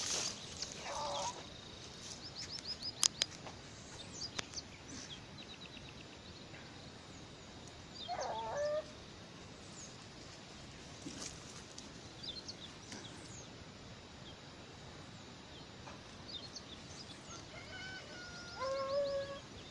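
Three drawn-out animal calls, about a second each, a second in, near the middle and near the end, the last one stepping down in pitch. Small birds chirp in between, with a few sharp clicks.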